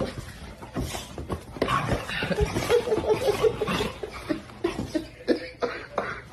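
A person laughing, a run of short laughs near the middle, among scattered clicks and knocks.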